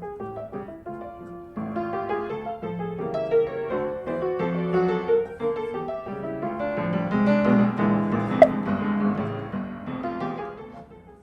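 Background piano music playing a flowing melody, with one brief sharp click about eight seconds in.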